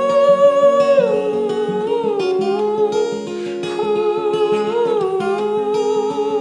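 A voice humming a wordless melody over strummed acoustic guitar, each note held and sliding into the next.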